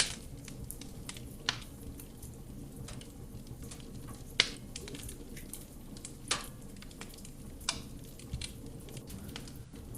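Wood fire burning in a fireplace: a steady low rumble of flame with sharp crackles and pops every second or two, the loudest about four and a half seconds in.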